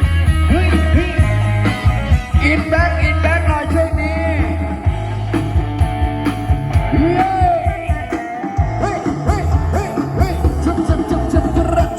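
Loud live band music from a Thai procession band: a singing voice over heavy bass and drums, with the bass dropping out briefly a little past halfway.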